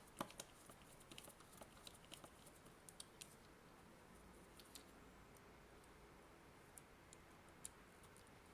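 Faint, irregular small clicks and taps of small parts being handled, several in the first few seconds and then only now and then.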